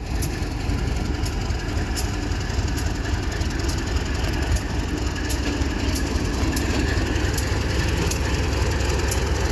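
Railway locomotive moving slowly, with a steady low rumble and a light, sharp tick recurring about once a second.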